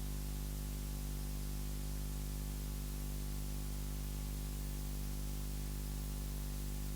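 Steady electrical hum with a stack of even tones under a constant hiss, with no other sound: background noise of the sound system or recording chain.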